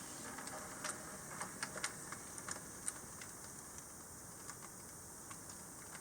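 HO-scale model steam locomotive running on track: light, irregular clicking, thickest in the first three seconds and sparser after, over a faint steady background.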